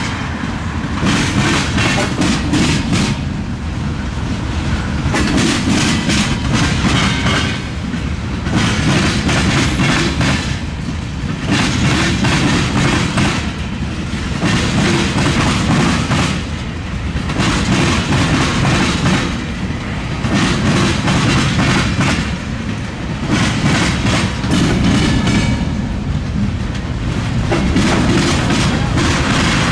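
Freight train rolling over a railroad diamond crossing. The wheels clatter across the crossing's gaps in repeated bursts, about every two to three seconds as each car passes, over a steady rumble.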